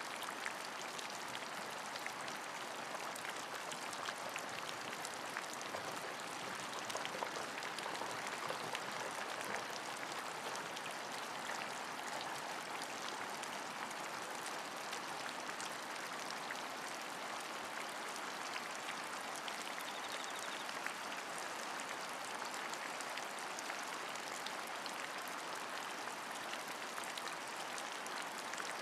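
Steady rain falling: an even hiss with many small, sharp drop ticks throughout.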